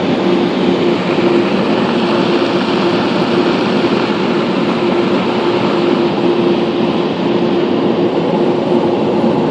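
Car wash air dryer blowers running: a loud, steady rush of air with a steady hum running under it.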